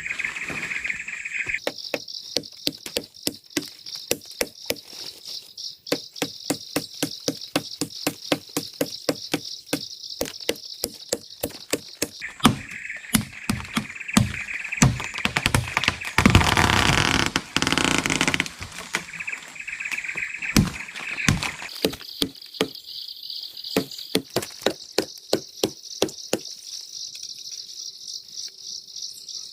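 Repeated chopping blows into a laban tree's trunk, sharp knocks about two or three a second, felling it for a makeshift bridge. About midway comes a louder rushing crash lasting a couple of seconds. Steady high insect buzzing runs underneath.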